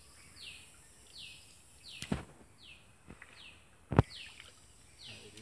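A bird calling over and over, a short falling note repeated about every three-quarters of a second. Two sharp impacts cut through it, one about two seconds in and a louder one about four seconds in.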